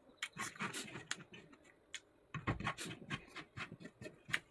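Close-miked eating sounds of a person chewing pork: an irregular run of short wet clicks and crackles from the mouth, with a louder soft knock about two and a half seconds in.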